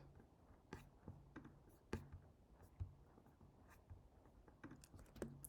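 Quiet room with faint, irregular clicks from someone working a computer, a dozen or so scattered through the stretch.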